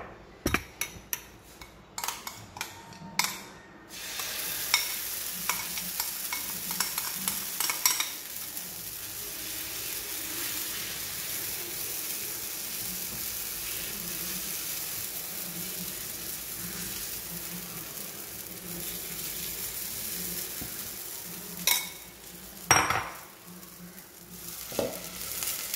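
Pancake batter sizzling steadily on a hot cast-iron tawa as it is spooned on and spread, after a few sharp taps and clatters of utensils on the pan in the first four seconds. Two louder knocks come near the end.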